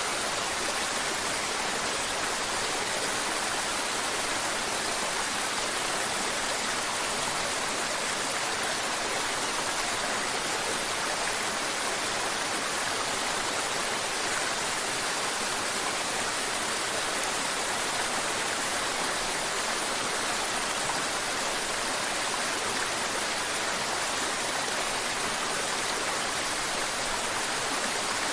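Mountain river water flowing and splashing over rocks in a steady, even rush.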